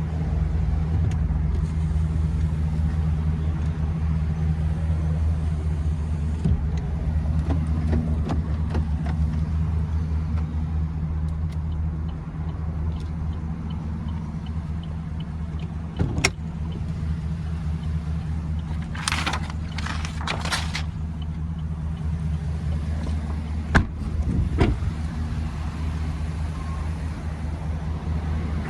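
Chevrolet 6.0 L Vortec V8 idling steadily, a low even hum. Short knocks and a quick run of three hissy bursts break in around the middle.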